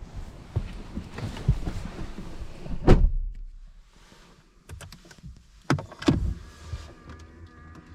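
Knocks and rustling at a car, the loudest a heavy thump about three seconds in, like a car door shutting, then two more thumps around six seconds; faint steady tones start near the end.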